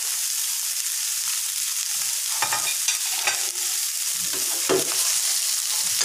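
Tuna pieces, onion and garlic sizzling in oil in a stainless steel pan, with a steady hiss. Metal tongs scrape and clink against the pan a few times in the middle as the fish is turned.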